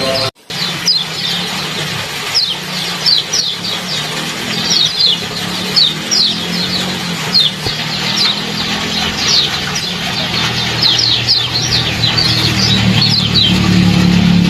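Rapid, repeated 'ciak' chirps from small songbirds: short, high notes falling in pitch, several a second, over a steady trickling-water hiss. The sound drops out briefly just after the start, and a low hum grows in near the end.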